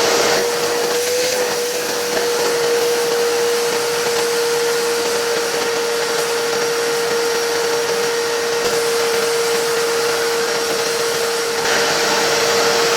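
Vacuum cleaner running steadily while vacuuming dust out of the inside of an old fan heater: a steady motor whine over the hiss of rushing air.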